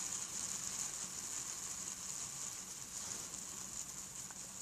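Fidget spinner spinning freely on its bearing, a steady high hissing whir that slowly fades as it spins down.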